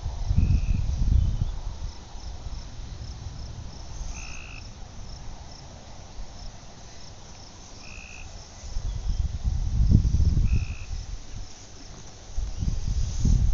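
Wind gusting on the microphone. Under it, a short high frog call repeats about every four seconds, over a steady fast chirping of insects.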